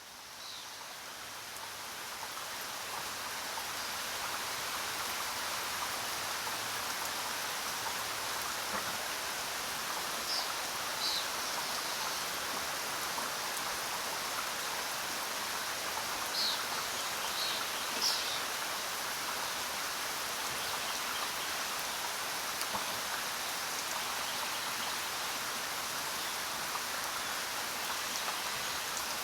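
Steady heavy rain falling on jungle foliage, swelling up over the first few seconds, with a few short high chirps of an animal heard through it.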